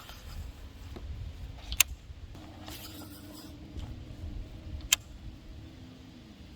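A kayak's electric trolling motor humming steadily under a low rumble. Two sharp clicks come about two and five seconds in.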